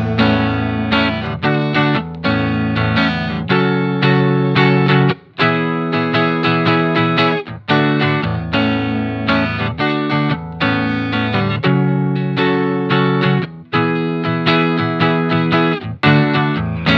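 Instrumental break in a song: guitar chords with effects, played in short strummed phrases that change every second or so, with no singing.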